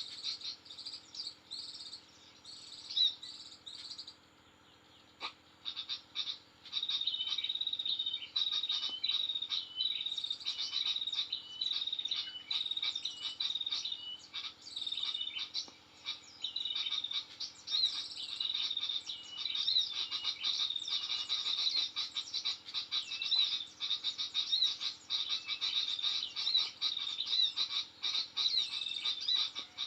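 Rapid high-pitched clicking and chirping animal calls, repeating steadily. They nearly stop about four seconds in and start again just over six seconds in.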